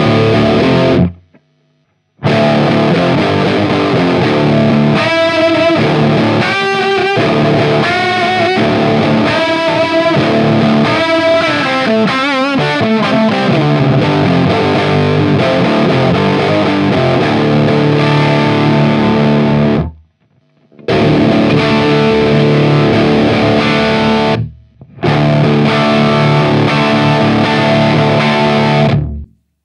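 Distorted electric guitar played through an overdriven tube-circuit guitar amp, heard as recorded clips of chord stabs and a bent, wavering lead line. The clips stop and start abruptly, with short silences between them about a second in, around twenty seconds in and briefly later.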